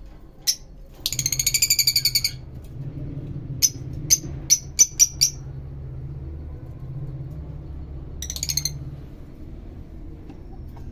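Lovebirds calling: a harsh, rapidly pulsed chatter about a second in, then a quick run of about six short, sharp chirps, and another brief chatter near the end, over a steady low hum.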